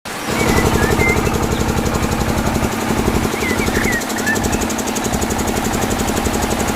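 A small engine running steadily with a fast, even knocking beat, with a few short high chirps over it.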